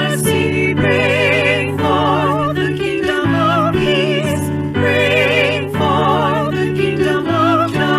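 Church music: singing with a wide vibrato on held notes over sustained low accompaniment chords that change about once a second.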